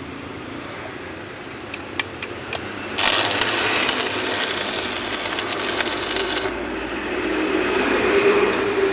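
Electric arc welder: a few sharp clicks as the arc is struck, then about three and a half seconds of steady crackling sizzle that cuts off suddenly. The front sprocket is being welded onto the countershaft as a stopgap, because its lock has worn and it spins freely on the shaft.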